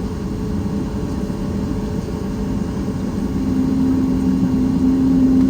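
Cabin noise aboard a Boeing 737 MAX 8 with its CFM LEAP-1B engines running: a steady low rumble with a hum that grows louder from about three seconds in.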